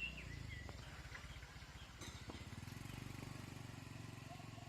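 Faint steady low hum of a small engine, with a few short bird calls near the start and again near the end.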